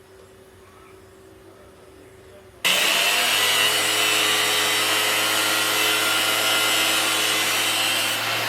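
A small electric motor running steadily with a high whine. It starts abruptly at full speed about three seconds in.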